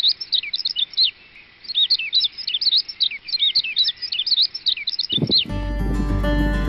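Small birds chirping: a dense string of quick, high, swooping chirps and trills, with a short pause about a second in. They stop suddenly about five and a half seconds in, when music with plucked strings begins.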